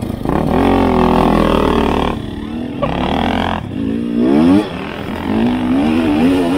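Dual-sport motorcycle engine under way, revving up and easing off about three times as it is ridden.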